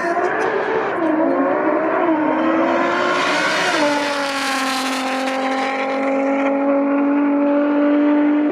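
A drag race car's engine revving, its pitch rising and falling for a few seconds. About three and a half seconds in it settles into one steady, held note that lasts to the end.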